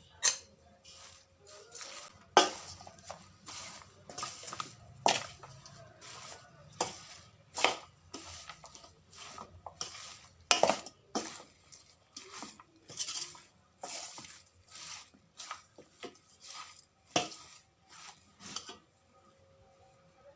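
Dishes and cutlery clinking and knocking at irregular intervals, with a few louder knocks.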